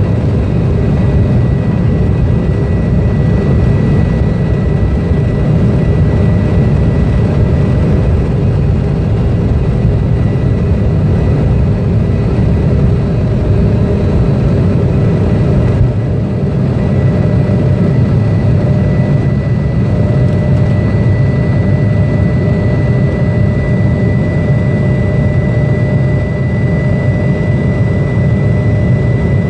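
Jet airliner engines running steadily: a heavy low rumble with a thin high whine, which fades for a while in the middle and then comes back.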